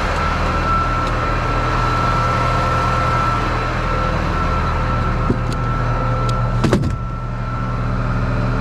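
Truck engine running steadily with a thin steady whine over it. A few light clicks, then a short clatter of knocks about seven seconds in, after which the sound drops a little.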